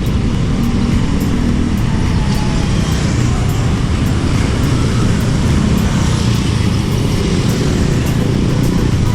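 Steady road traffic noise: cars and other motor vehicles running along a busy highway, a continuous low rumble.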